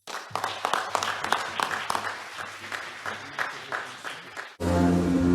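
Audience applauding, a dense patter of many hands clapping. About four and a half seconds in, the applause cuts off abruptly and loud music with sustained held notes starts.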